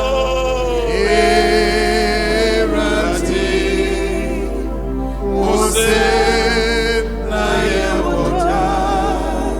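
Church choir singing a hymn in Akan, several voices in harmony with vibrato, in sung phrases with brief breaks between them.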